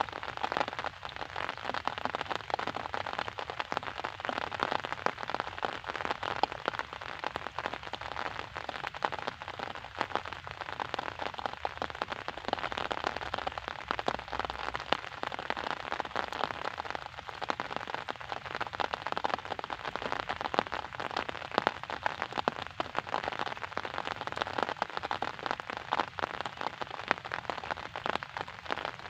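Steady rain falling, heard as a dense, even hiss of countless small drop hits.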